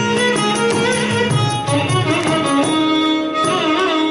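Carnatic violin playing a quick, gliding melodic phrase over mridangam strokes and a steady drone.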